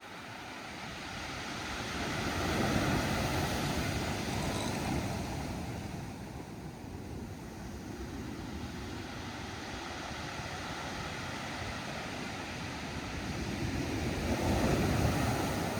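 Pacific Ocean surf washing onto the beach in a steady rush, swelling twice (about three seconds in and again near the end), with some wind on the microphone.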